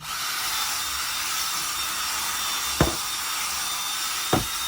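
An electric power tool used to clean car carpet runs at a steady pitch, a hissing whir, with two short knocks about a second and a half apart.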